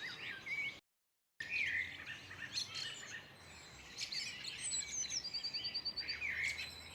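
Small woodland birds chirping and calling, with a fast, high trill of about ten even notes a second around five seconds in. The sound drops out completely for about half a second near the start.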